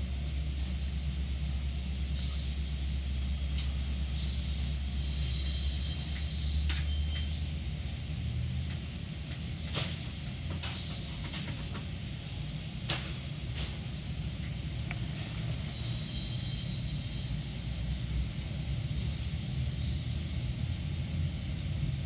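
Metra commuter train rolling along the rails, heard from on board: a steady low rumble with scattered clicks and squeaks. The deepest part of the rumble eases about seven seconds in.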